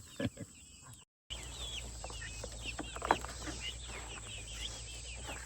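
Chickens clucking and chirping over a steady low hum, with a single sharp tap about three seconds in.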